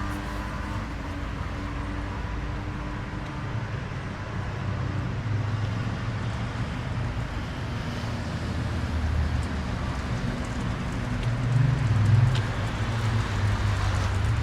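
Street traffic: a motor vehicle's engine running close by over a steady road-noise hum, growing louder to a peak near the end.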